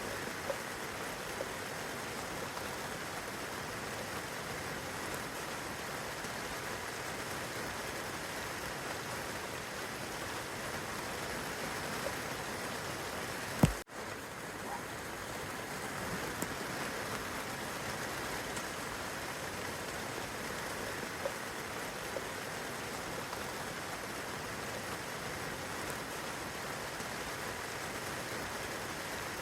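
Steady rain falling on leaves and grass, an even hiss with a few single drops ticking close by. About halfway through comes one sharp click and a split-second gap in the sound.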